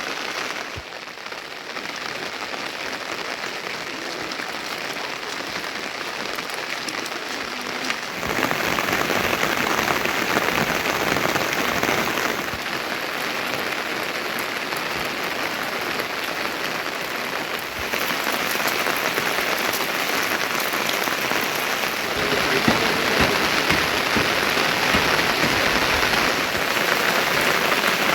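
Heavy monsoon rain falling in a steady, dense hiss. Its level and tone shift abruptly several times.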